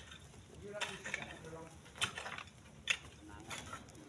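Split stones knocking against each other as they are handled and loaded: three sharp clacks about a second apart, with faint voices between them.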